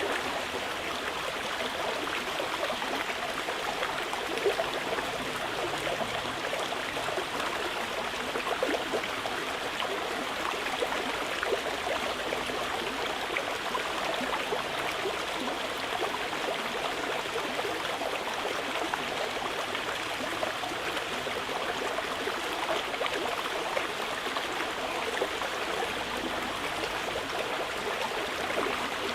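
Mountain river flowing steadily, an even rush of water with small louder splashes now and then.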